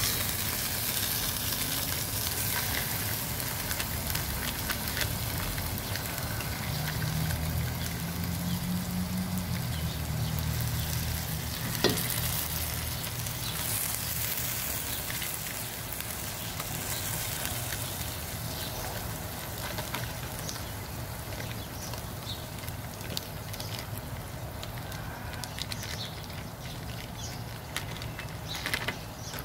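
Onion and garlic sizzling in oil in a pot as ground beef is squeezed in; the sizzle quietens gradually. A low hum joins in for several seconds midway, and there is one sharp click.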